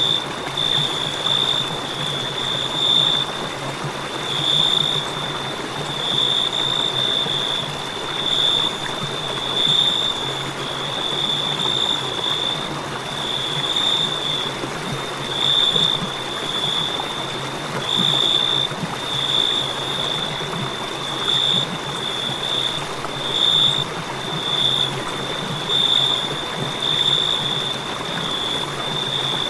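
Crickets chirping in a continuous high-pitched trill that swells and fades every second or two, over a steady background hiss.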